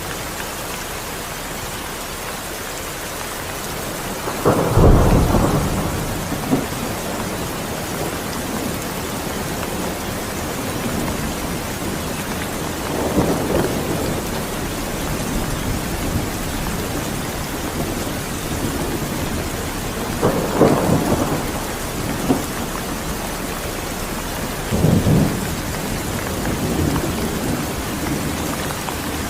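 Steady heavy rain, with several short rumbles of thunder: the loudest about five seconds in, then others near the middle, about two-thirds through and near the end.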